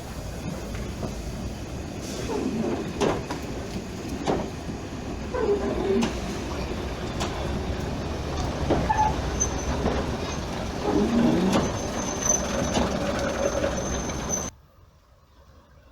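A train running, a rumbling noise with scattered knocks and a thin high squeal in its second half. The sound cuts off sharply about a second and a half before the end.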